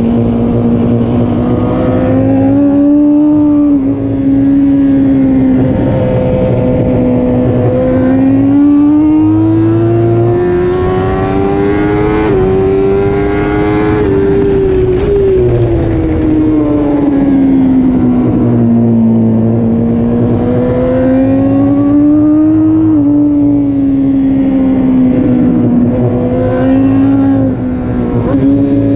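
BMW S1000RR inline-four racing engine at high revs under a rider's full throttle, its pitch climbing steadily as the bike accelerates down a straight, then falling away as it brakes and slows for a corner, and rising and falling again through the following bends, with wind rushing past.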